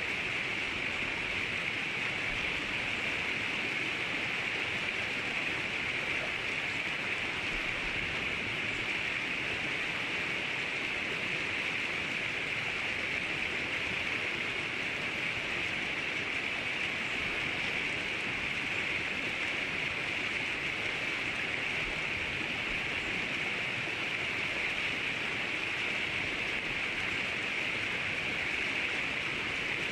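Steady rushing of flowing river water, an even hiss with no changes and no bird calls standing out.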